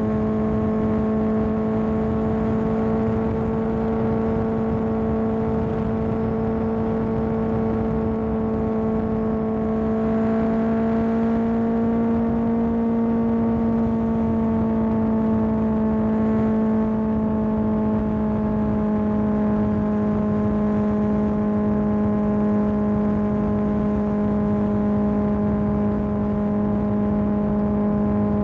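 Kawasaki ZX10R inline-four sport bike with an M4 aftermarket exhaust, running at a steady cruise. The engine note rises slightly a little under halfway through, then eases gradually back down.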